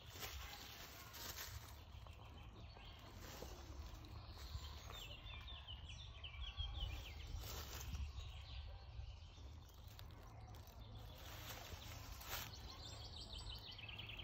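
A small songbird singing rapid high trills twice, about a third of the way in and again near the end, over a steady low rumble and faint rustling.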